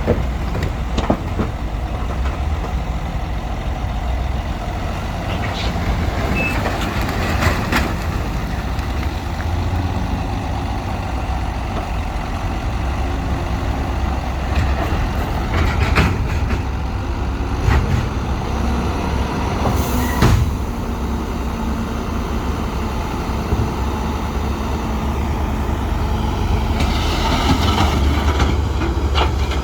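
Heavy diesel earthmoving machinery running steadily under load, with scattered knocks and clanks and a short hiss about two-thirds of the way through.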